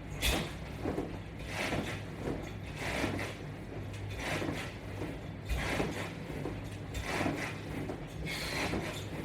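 Sit-up repetitions on a strap-anchored Latchbar resistance system: a sound that comes back with each repetition, about every 1.4 seconds, over a steady low hum.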